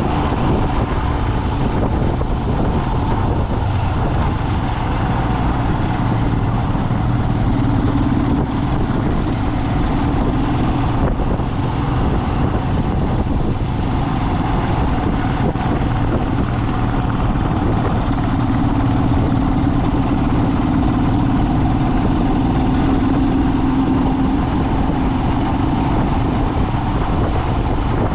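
Vehicle engine and road noise of a drive, steady and continuous, with the engine hum swelling a little twice.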